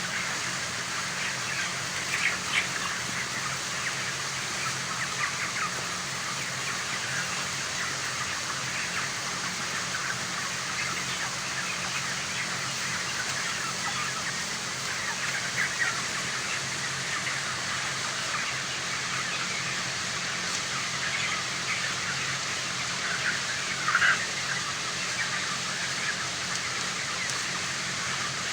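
A large flock of young broiler chickens cheeping continuously over a steady low hum, with a louder call standing out near the end.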